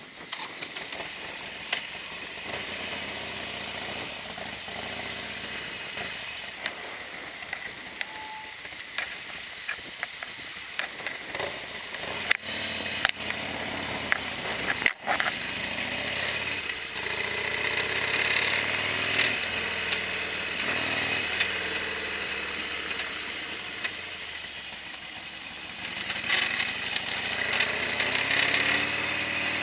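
Harley-Davidson Sportster XL1200R's air-cooled V-twin engine running, with scattered sharp clicks in the first half and getting louder near the end.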